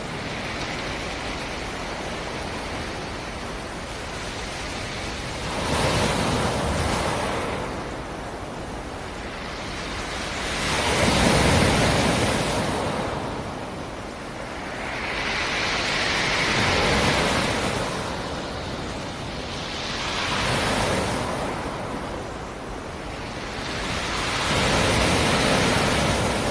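Sea surf on the shore: waves breaking and washing in one after another, a swelling rush every four to five seconds with a steady hiss between them.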